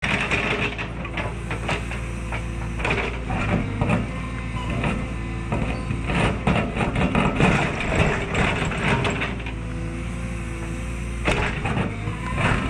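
Cat 314E excavator's diesel engine working under load, with repeated scraping knocks and cracks as the ripper tooth tears into a rocky high spot.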